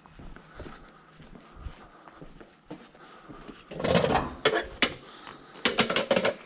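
Chairs clattering and knocking as they are picked up and handled for loading as scrap: a loud rattling burst about four seconds in, a couple of single knocks, then another cluster of clatters near the end.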